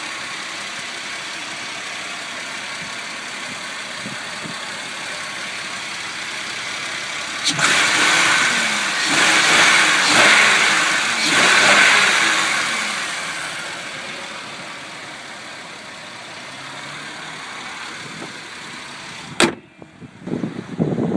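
2004 Buick Rendezvous CXL's 3.4-litre V6 idling steadily, then revved up and down a few times from about seven seconds in before settling back to idle. A single sharp knock near the end, after which the engine is much quieter.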